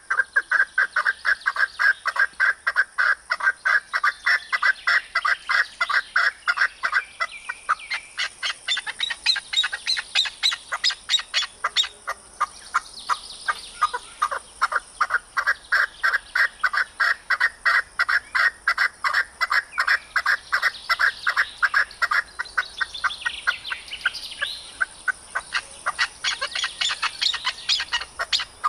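Arabian partridge (maskati chakor) giving a long, fast run of repeated clucking call notes, about four a second. Higher chirps from another bird cut in now and then.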